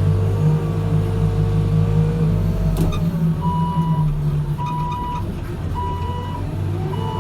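New Holland backhoe loader's diesel engine running steadily, with a single clank about three seconds in. The engine then eases and the reversing alarm beeps four times, about once a second, as the machine backs up.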